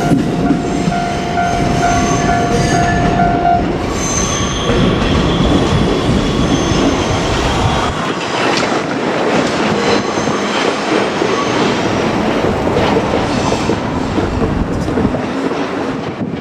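JR Kyushu 787 series electric train running by on the rails, with steady wheel-on-rail noise, rail-joint clacking and thin wheel squeal. A repeating tone stops about four seconds in, and the deep rumble eases about eight seconds in.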